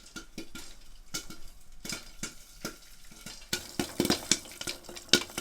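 Cutlery and dishes clinking and knocking irregularly, getting busier about three and a half seconds in.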